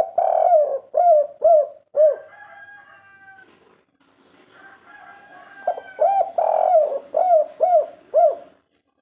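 Spotted dove (derkuku) cooing: two phrases, one at the start and one from about six seconds in, each a longer coo followed by a run of short clipped coos, the multi-note 'kuk 3' ending prized by keepers.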